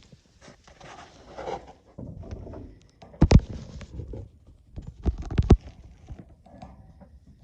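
Rustling and shuffling movement with several sharp knocks, the loudest about three seconds in and a cluster around five seconds in.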